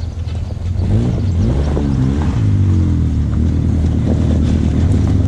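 Off-road vehicle engine running under way, its revs rising and falling a couple of times about a second in, then easing down to a steady pace.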